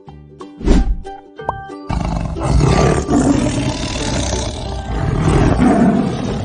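Tiger roaring, one long rough roar that starts about two seconds in and runs on for over four seconds, over light children's background music.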